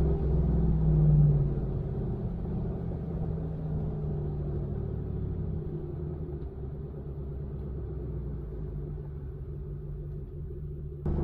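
Ford F-150 pickup with a Borla ATAK aftermarket exhaust, its engine drone heard while driving: louder for the first second or so, then easing off to a steadier, quieter cruising note. The sound jumps abruptly louder near the end.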